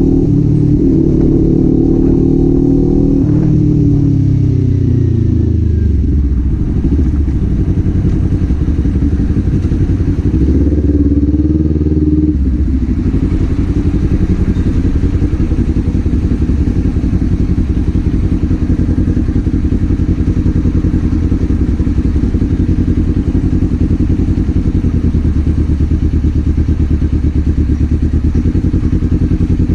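Kawasaki Z400's parallel-twin engine and exhaust. The revs fall away over the first several seconds as the bike slows, rise and fall briefly around ten seconds in, then settle into a steady idle.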